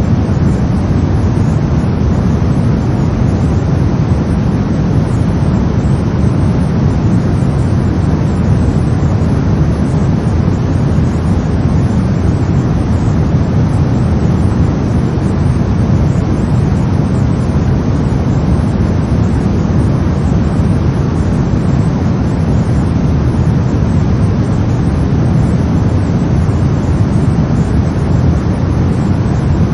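Steady brown noise: an even, deep, rumbling hiss with most of its weight in the low end, unchanging throughout.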